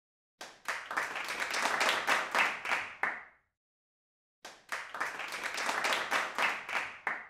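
Two bursts of applause, a crowd clapping, each lasting about three seconds with a second of silence between them.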